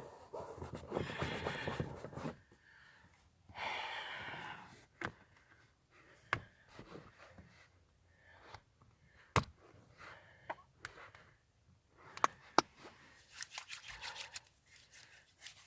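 Handling noises: two stretches of rustling, then several sharp clicks and knocks spread out over the middle, and a run of crackling near the end.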